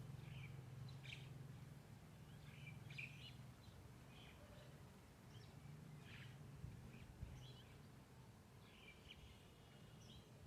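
Faint, short bird chirps, scattered irregularly about once a second, over a low steady background hum.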